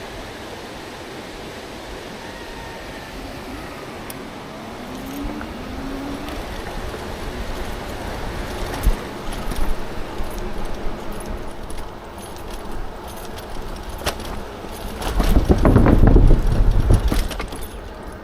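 E-bike rattling and clattering as it rolls over a rough path, with rushing noise on the microphone; a loud low rumble with dense rattling swells near the end.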